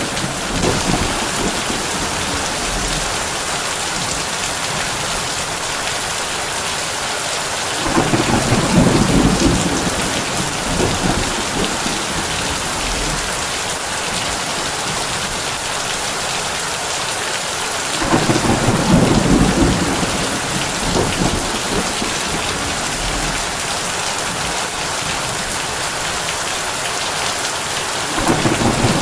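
Heavy rain falling steadily on a tin roof, with a low roll of thunder about every ten seconds: three in all, the last one starting near the end.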